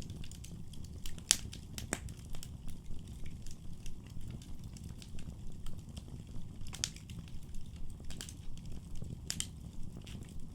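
Wood fire in a fireplace burning with a steady low rumble and scattered sharp crackles and pops, the loudest pops a little over a second in and near two seconds.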